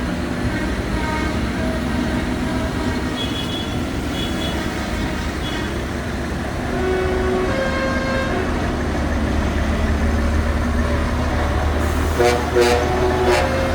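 Tractor engines running as they pass, the low rumble growing stronger about halfway through, with several short horn toots near the end.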